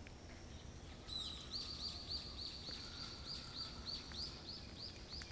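A bird singing a fast series of identical high, arched notes, about four to five a second, starting about a second in and going on for about four seconds, over faint steady outdoor background noise.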